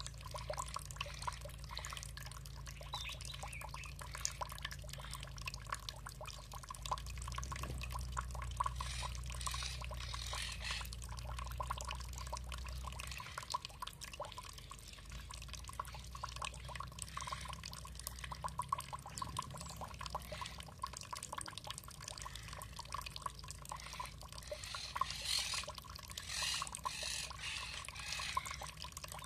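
Water trickling and dripping in a steady run of small drips and splashes, a little fuller twice, around a third of the way in and near the end.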